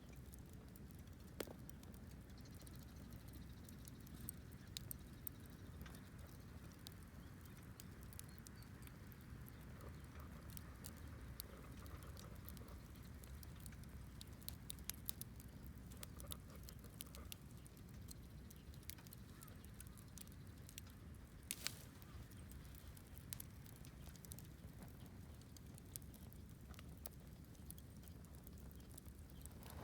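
Wood campfire burning faintly, with irregular crackles and sharp pops over a low steady background hum.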